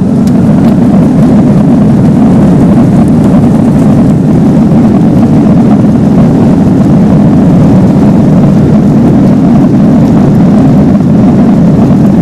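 An Airbus A330's jet engines at takeoff thrust, heard from inside the cabin as a loud, steady rumble during takeoff.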